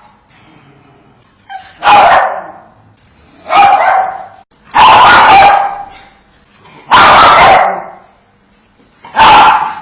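Dog barking loudly: five single barks spaced about one and a half to two seconds apart, with the third and fourth held a little longer.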